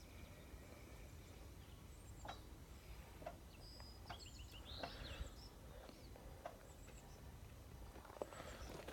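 Faint bird calls: a few short chirps and a quick run of high notes in the middle, over a steady low rumble of outdoor background noise.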